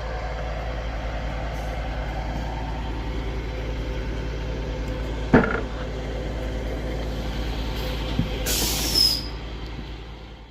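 Diesel passenger train idling at a halt platform, a steady engine hum, with one sharp knock about halfway through and a short burst of hissing air near the end.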